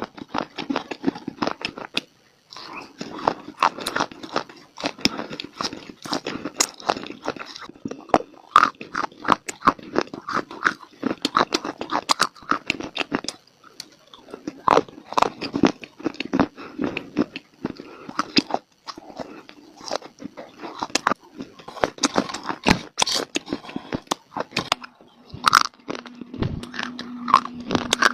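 Close-up crunching and chewing of baked clay (mitti): dense sharp cracks as brittle pieces are bitten and ground between the teeth, with brief pauses. Near the end a low steady hum joins in, with a single thump.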